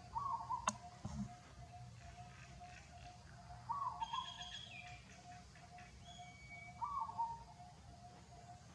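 Birds calling: a steady run of low, even notes about three a second, with a louder short call, falling at the end, repeated about every three seconds. A single sharp click comes just under a second in.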